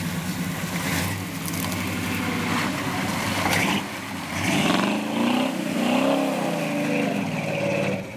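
1979 GMC 4x4 pickup's engine under load, driven through mud. It runs steadily at first, then about halfway in it revs up and down several times.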